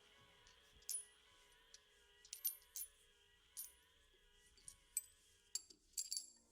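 Light, sharp metallic clinks of small metal objects being handled, about ten of them, bunched more closely near the end.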